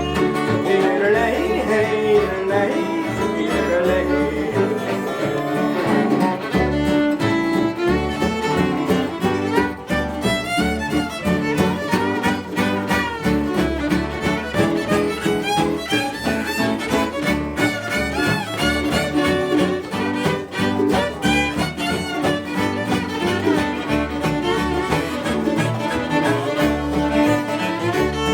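Instrumental break in a bluegrass song: a fiddle takes the lead over strummed guitar and a bass line at a steady country tempo.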